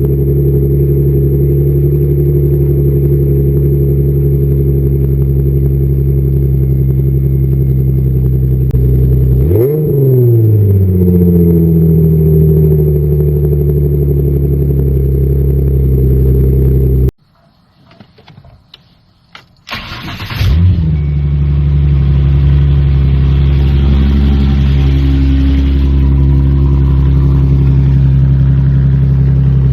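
Ford Mustang 4.0 V6 engines with modified exhausts, idling steadily, with one quick throttle blip about ten seconds in. Around the middle the sound drops away to quiet for about three seconds. Then an engine starts and settles into a steady idle.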